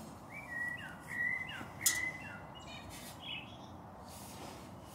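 A bird chirping: a quick run of short whistled notes, several falling in pitch, through the first two and a half seconds, then a few higher notes about three seconds in. A single sharp click, the loudest sound, comes just under two seconds in.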